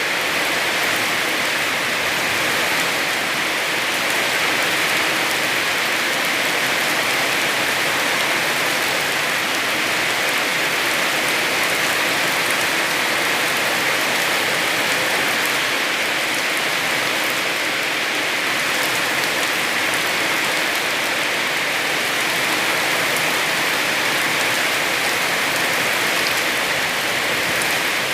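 Heavy rain falling steadily, an even hiss with a dense patter of drops hitting surfaces.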